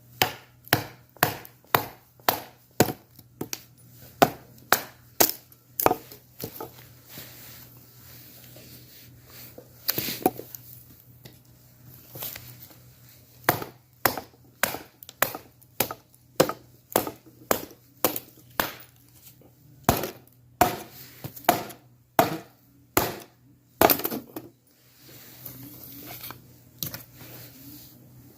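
Wood being chopped with a blade: repeated sharp strikes about two a second, in runs broken by short pauses, fading out near the end.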